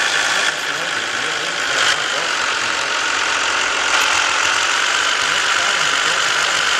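Scania S 450 truck running: a steady mix of engine and road noise with no breaks, with a short change in the higher hiss between about half a second and two seconds in.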